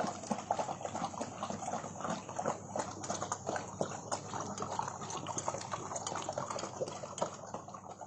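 Several dogs eating from their food bowls: a dense run of quick crunches, clicks and wet mouth sounds.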